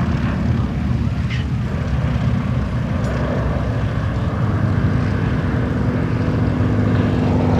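Propeller airplane engine running loudly with a dense low rumble. About halfway through, a steady engine drone comes in and holds.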